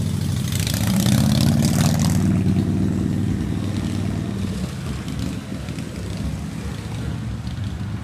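Motor vehicle engine running steadily, with a louder surge of traffic noise about a second in that fades over the next two seconds.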